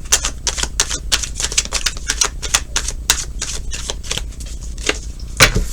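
Tarot cards being shuffled by hand: a quick, uneven run of crisp card clicks and slaps, several a second, with a louder knock near the end.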